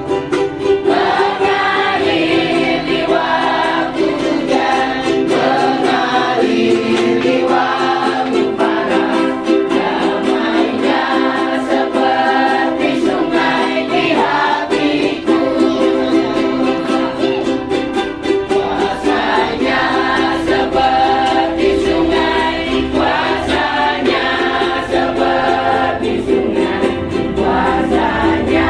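Church choir singing a hymn, accompanied by a strummed string instrument.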